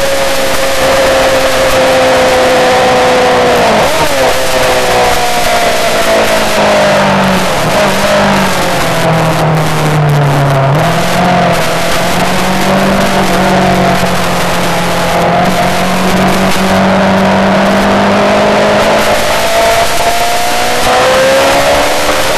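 Yamaha R6 600cc inline-four sport bike engine running hard on a race track, under a steady roar of wind. The engine note sinks through the first half, with a quick break about four seconds in, then climbs steadily again as the bike accelerates.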